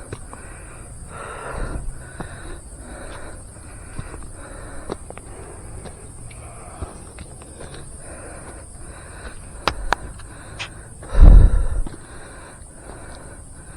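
A hiker's footsteps on a forest trail, a soft step about every half second, under a steady high insect drone. About eleven seconds in, a loud low thump, like a bump or a gust on the microphone.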